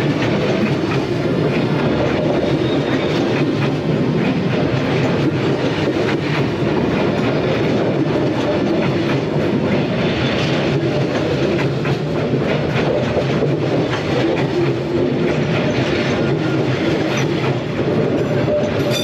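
Train rolling past at close range, its wheels clattering steadily over the rail joints with a continuous rumble.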